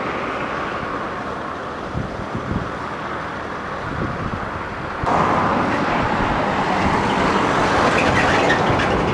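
Road traffic and vehicle engine noise, steady and rumbling, which jumps abruptly to a louder, brighter stretch about five seconds in.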